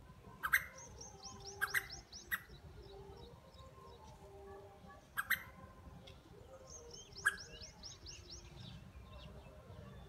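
Small birds calling: a handful of loud, sharp chirps, with two quick runs of high, downward-slurred notes, one in the first two seconds and another from about seven seconds in.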